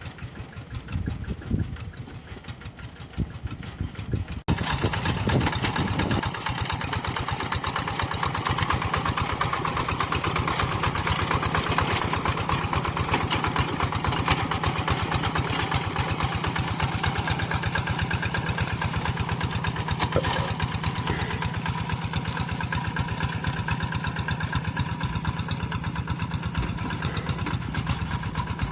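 Tractor engine running steadily with a rapid, even firing beat. About four and a half seconds in it turns abruptly louder and closer.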